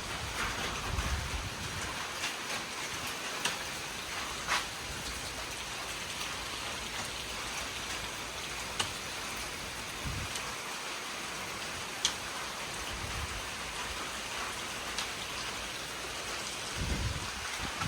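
Steady light rain falling, a soft even hiss with scattered sharp drop ticks, and gusts of wind buffeting the microphone now and then.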